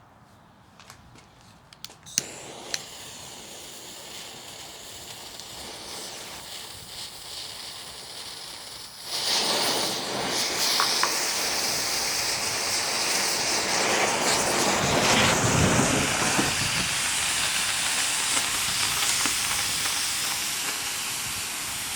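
Black Cat smoke balls hissing as they burn. A couple of sharp clicks come about two seconds in, then a faint hiss starts. About nine seconds in the hiss becomes much louder and stays loud.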